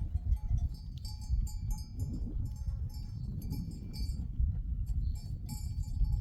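Bells on a grazing sheep flock clinking and ringing irregularly as the animals move, over a steady low rumble.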